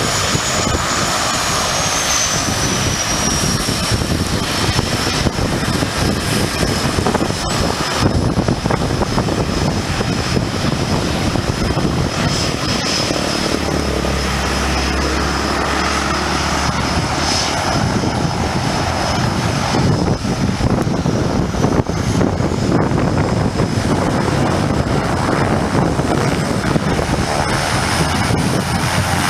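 Propeller airplane engine running steadily and loudly, with a high whine that drops in pitch over the first few seconds.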